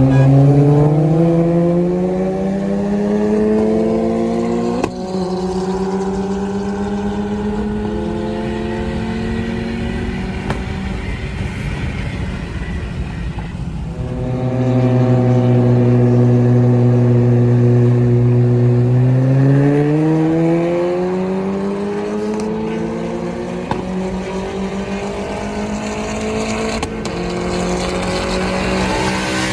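A car engine running close and loud, its pitch climbing over the first few seconds and then holding steady. About 14 seconds in it falls back to a lower steady pitch, then climbs again near 19 seconds and holds.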